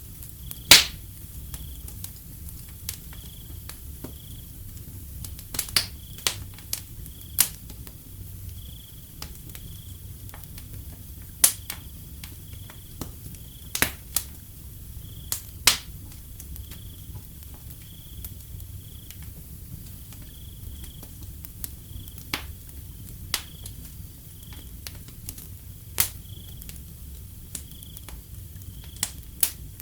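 Wood fire crackling, with sharp irregular pops (the loudest about a second in) over a low steady rumble. A cricket chirps faintly and repeatedly in the background.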